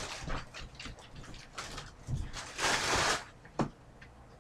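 Trading cards and their foil pack wrappers being handled: rustling and crinkling, with a longer burst of crinkling a little past halfway and a sharp click soon after.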